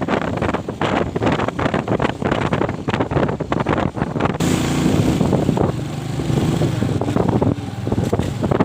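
Wind buffeting the microphone while a motorcycle engine runs; about halfway through, the engine's tone comes up clearly along with a hiss, then fades near the end.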